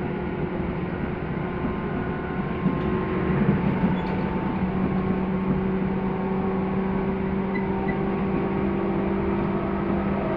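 Inside a Tobu 10030 series electric commuter train: a steady low hum with rumble, its tones holding level throughout, getting a little louder about three seconds in.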